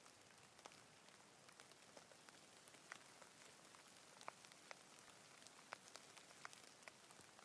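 Faint rain: a soft, even hiss with scattered single drops ticking close by.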